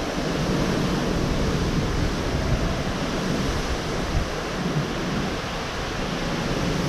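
Severe thunderstorm wind blowing hard in gusts of around 80 mph: a loud, steady rush that swells a little now and then.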